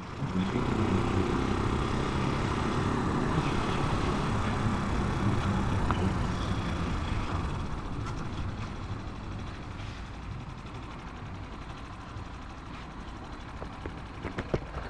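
Italika 250 motorcycle engine running steadily, then dropping to a quieter, lower level from about seven or eight seconds in.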